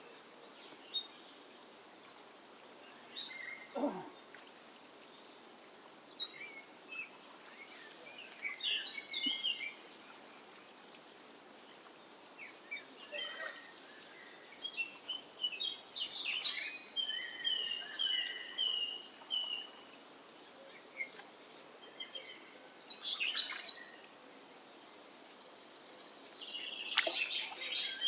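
Songbirds singing in short, scattered phrases of chirps over a quiet background, one bird repeating a run of even notes in the middle. There is a brief downward-sweeping sound about four seconds in.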